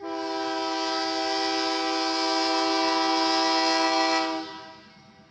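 Locomotive air horn sounding one long steady chord of several notes for about four seconds, then fading out.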